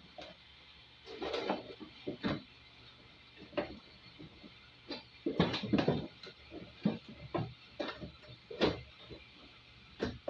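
Irregular knocks, clicks and rattles of hard parts and tools being handled, with a cluster of louder clatters about midway.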